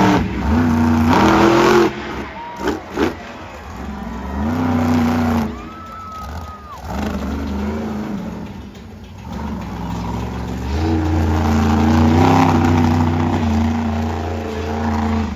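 Monster truck engine revving in repeated surges, its pitch rising and falling, easing off briefly near the start and again in the middle before picking up once more.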